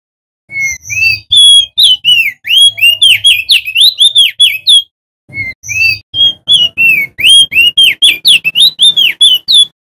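Male opior jambul (crested white-eye) singing loudly: two fast phrases of sweet whistled notes, each note swooping up or down, about five notes a second, with a short break in the middle.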